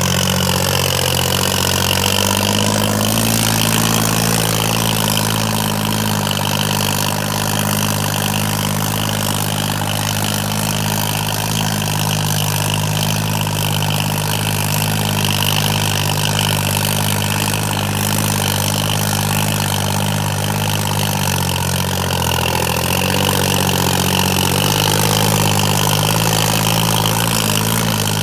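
John Deere tractor's diesel engine running steadily at constant speed.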